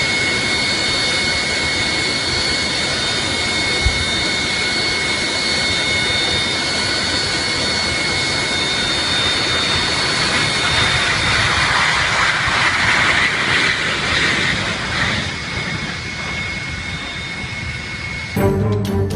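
Jet engine running: a steady rushing roar with a high whine on top, growing louder for a few seconds around the middle.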